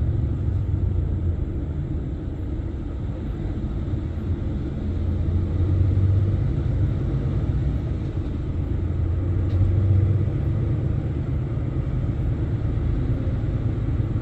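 Lorry's diesel engine and running gear heard from inside the cab: a steady low rumble with a deep hum that swells twice.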